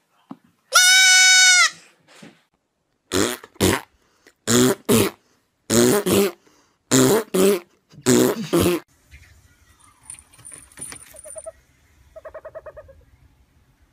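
A goat kid gives one loud, high, slightly wavering bleat about a second in. Then come five pairs of short, loud sounds about a second apart. Near the end a screech owl gives a soft, rapid trill.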